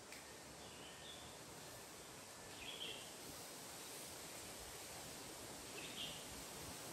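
Faint, steady outdoor noise with a few short, high bird chirps: one about a second in, one near three seconds and one near six seconds.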